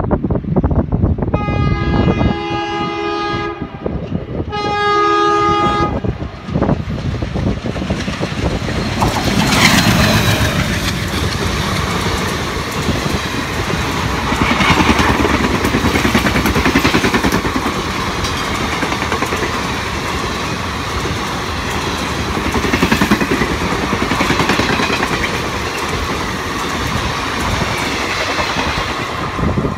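WDG-3A Alco diesel locomotive sounding its multi-tone horn twice, a long blast and a shorter one. It then runs through at speed, its pitch dropping as it passes, followed by the coaches clattering steadily over the rail joints.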